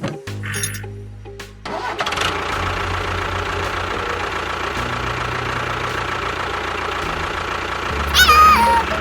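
An engine-like running sound that sets in about two seconds in and runs steadily, with music. A short, loud call with a falling pitch comes near the end.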